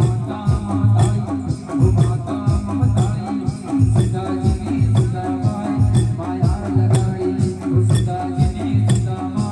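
Garba music with a steady, driving beat and shaker-like percussion, and a singer's melodic line over it.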